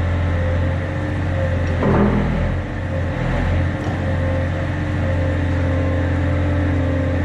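Yanmar excavator's diesel engine running steadily, with a brief change in load about two seconds in.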